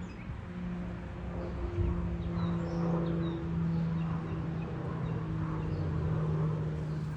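Steady low mechanical hum, like a motor or engine running, that swells slightly about two seconds in, with small birds chirping faintly and intermittently over it.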